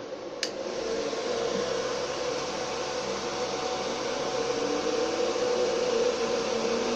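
Two industrial cooling fans with turbine-type impellers in a homemade Lada Niva heater fan housing, switched to full speed with a click about half a second in. The rush of blown air swells over the next second or so, then runs steady with a faint whine.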